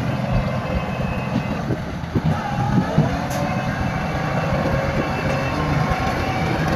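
Bulldozer running, its diesel engine working steadily while its steel crawler tracks clank, with a few sharper knocks about two to three seconds in.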